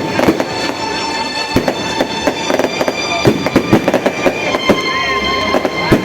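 Fireworks and firecrackers going off: rapid, irregular cracks and pops, with steady whistling tones behind them.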